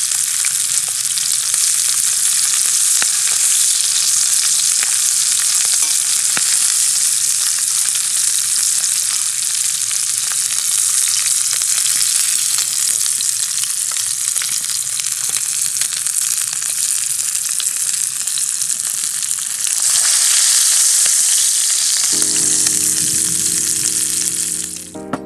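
Thick sirloin steak sizzling steadily in a hot wrought-iron frying pan over a wood fire, a dense continuous hiss. Soft background music comes in near the end, just before the sizzle cuts off.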